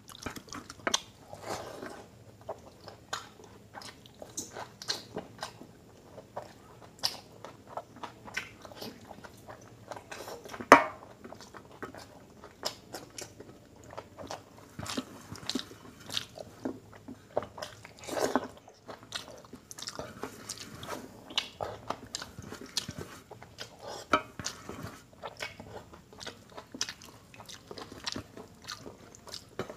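Chewing and biting of a man eating dal, mutton curry and paratha by hand: a steady run of irregular short mouth clicks and smacks, with one sharp loud click about eleven seconds in.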